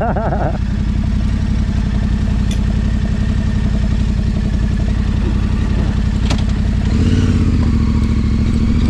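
Yamaha Ténéré 700 parallel-twin engine running steadily on the move, with two sharp knocks from the bike over the ground. About seven seconds in, the engine note rises as the throttle opens.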